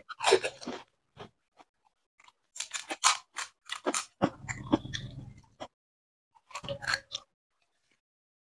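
Crunching and chewing of a whole fuchka (pani puri) in the mouth: the crisp fried puri shell cracks as it is bitten, followed by wet chewing in irregular bursts, loudest just after the start and again about three seconds in.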